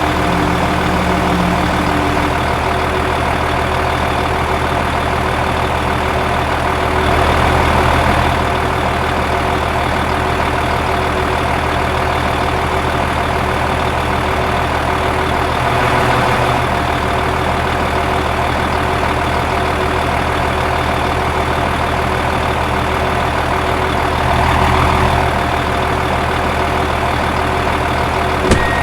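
Tractor engine running at a steady idle, swelling briefly in level about every eight seconds.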